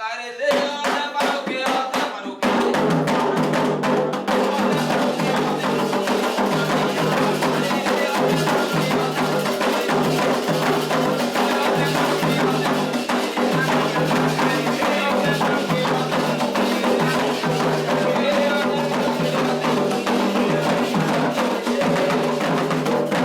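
Candomblé atabaque drums playing a fast, dense toque, the ritual rhythm for the orixás Oxóssi and Ossaim. The drumming comes in at full strength about two seconds in after a lighter lead-in.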